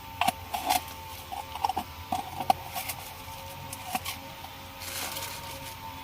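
A run of irregular clicks and light knocks, clustered in the first half, over a faint steady hum.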